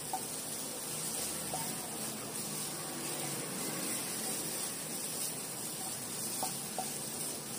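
Onion, tomato and curry leaves sizzling steadily in oil in a nonstick frying pan as they are stirred with a wooden spatula, with a few faint taps of the spatula against the pan.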